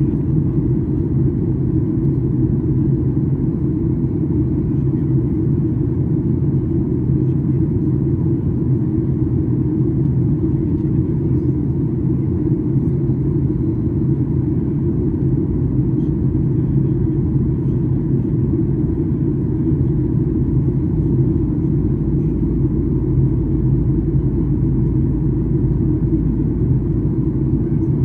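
Steady low rumble inside the cabin of a Boeing 737-800 airliner, the sound of its engines and the air around it.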